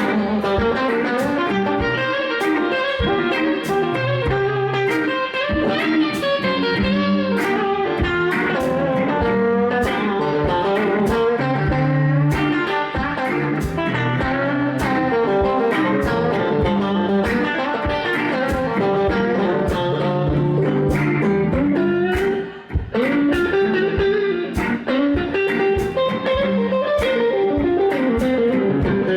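Electric blues band playing an instrumental passage between sung verses: electric guitar carrying the lead over a bass line and a steady beat. The music drops out for a moment about three-quarters of the way through.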